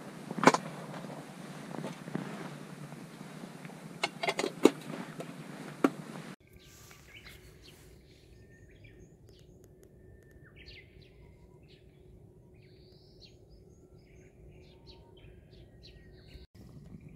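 A few sharp knocks over steady rushing noise. About six seconds in, this gives way to a quieter open-air background with small birds chirping and calling, and a faint steady hum under them.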